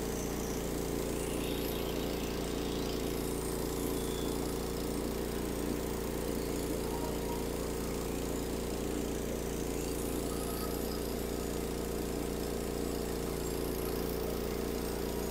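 Norwood HD36 band sawmill running steadily under load as its Cooks band blade cuts through a white oak log, including a knot.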